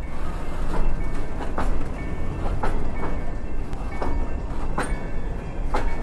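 Freight train cars rolling past close by: a heavy, steady rumble of steel wheels on the rails. A sharp click comes about once a second as the wheels cross the rail joints.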